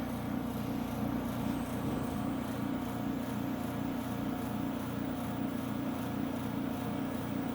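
Alcatel ASM 180TD helium leak detector running with its vacuum pumps up to speed during auto-calibration: a steady mechanical hum with an even pulsing about twice a second.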